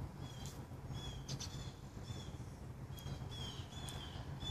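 A bird calling faintly with short, high chirps repeated about once a second, over a low steady hum.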